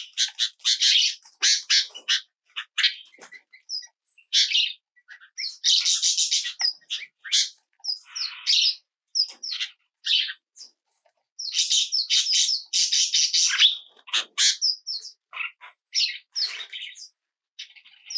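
Small songbirds chirping and twittering in rapid clusters of short, high, scratchy calls, broken by brief gaps.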